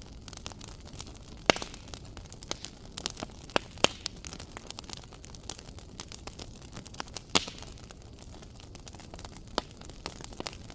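Wood fire crackling in a fireplace: a steady low hiss with irregular sharp pops and snaps, the loudest about one and a half seconds in, near four seconds and past seven seconds.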